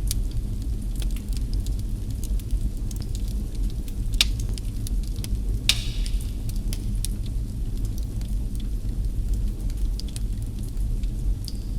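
Wood fire in a fireplace crackling, with a steady low rumble underneath and scattered small pops. Two sharper pops stand out about four and six seconds in, the second followed by a brief hiss.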